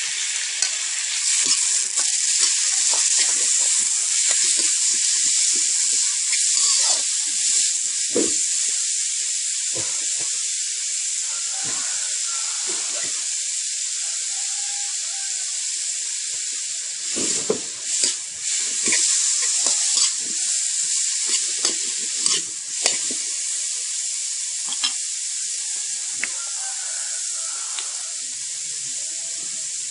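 Sliced boiled bamboo shoots sizzling in hot oil in a steel wok, with a steady hiss that is loudest in the first few seconds and eases off toward the end. A few sharp scrapes and clicks of the metal ladle against the wok come around the middle.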